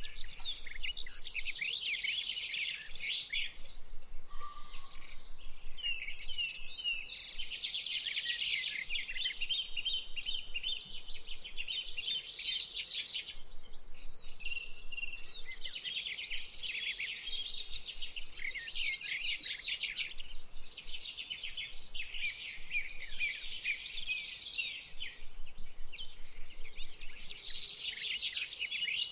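Small birds chirping and twittering, many calls overlapping in rapid bursts of a few seconds each.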